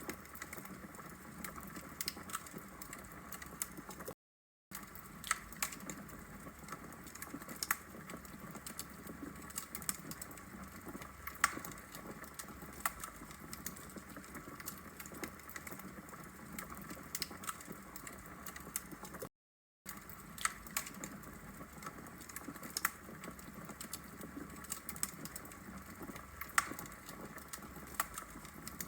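Wood logs burning in a fireplace, crackling with frequent irregular sharp pops over a steady low hiss. The sound cuts to silence for about half a second twice, at about 4 s and again at about 19 s.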